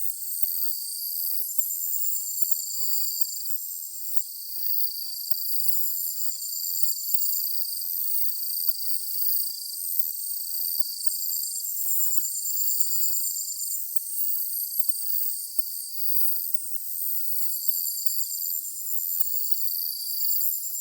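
A chorus of singing insects: several overlapping high-pitched trills and pulsed chirps, repeating in phrases of a second or two, with no low sound under them.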